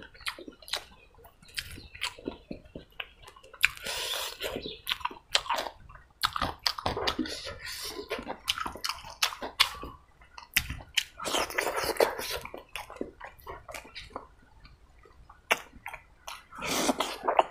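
Close-miked wet chewing and lip-smacking of rice and pork curry, with short clicks throughout. A few longer squelching spells come from fingers mixing the rice with the curry gravy.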